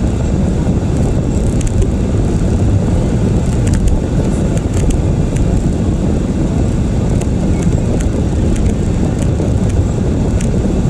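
Steady road and engine noise inside a moving vehicle's cabin, with a few faint scattered clicks.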